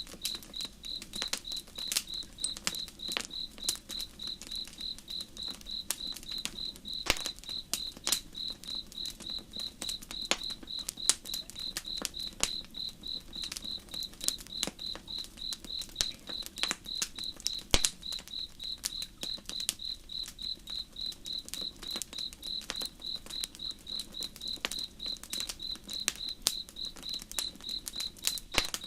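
Crickets chirping in a steady, even rhythm of high pulses, over the sharp crackles and pops of a wood campfire, with a faint low steady rush of river water beneath.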